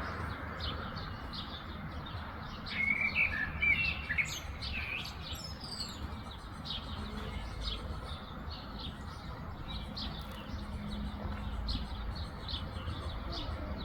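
Several small birds chirping in short, repeated high notes, with one louder warbling song phrase about three seconds in, over a steady low outdoor rumble.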